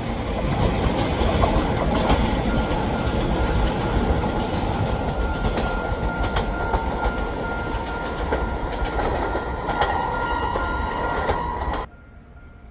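A train running past on the rails, its wheels clacking over rail joints beneath a steady high whine. The sound cuts off abruptly near the end.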